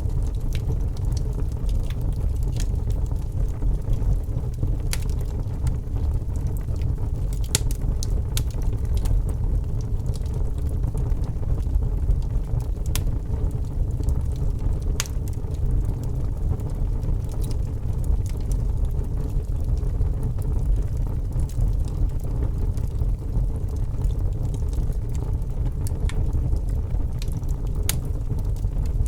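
Wood fire burning in a fireplace: a steady low noise of the flames with irregular sharp crackles and pops from the burning wood, roughly one every second or two.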